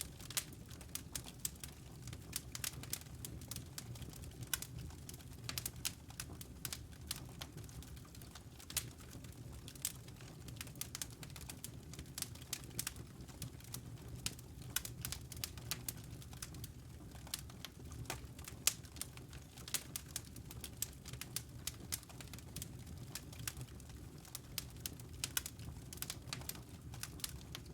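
Wood fire crackling in a fireplace: an irregular, continuous run of sharp pops and snaps over a steady low hum.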